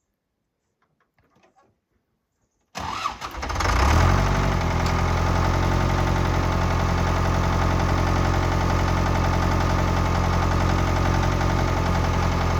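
Ford 6610 tractor's diesel engine comes in suddenly about three seconds in, rises briefly in pitch and then settles into a steady, even run.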